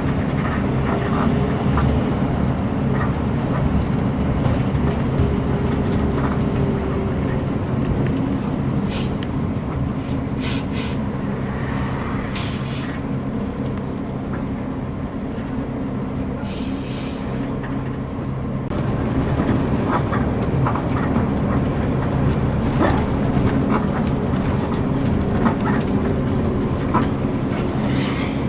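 Intercity coach on the move: a steady low engine drone and road rumble, with scattered rattles and clicks from the cabin. The sound shifts slightly about two-thirds of the way through.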